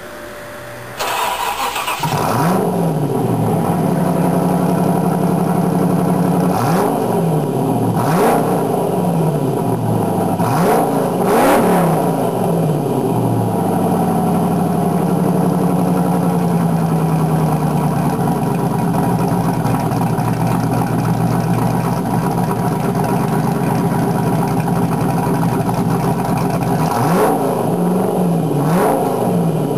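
TVR Chimaera 4.0's V8 being cranked by the starter and firing up about two seconds in, then idling through its exhaust. It is blipped up and back down four times in quick succession, then idles steadily and is blipped twice more near the end.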